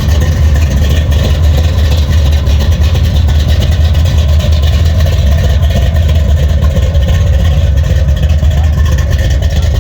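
A car engine idling steadily, a loud, even low rumble.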